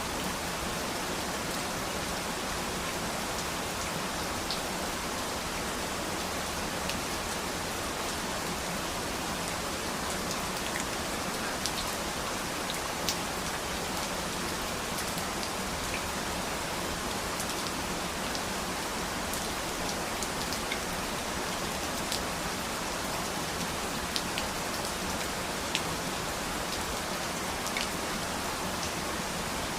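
Steady rainfall: an even hiss of rain with scattered sharper ticks of single drops striking a surface.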